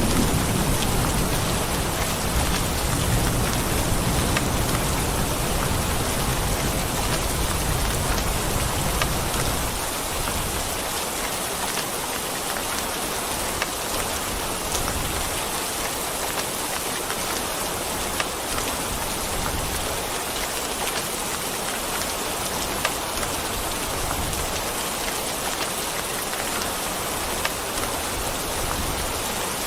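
Steady heavy rain falling, an even hiss with the odd distinct drop. A low rumble of thunder dies away about ten seconds in.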